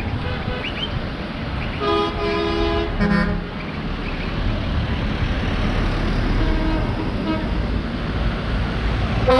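Road traffic rumbling steadily, with a vehicle horn sounding about two seconds in and shorter, fainter toots later.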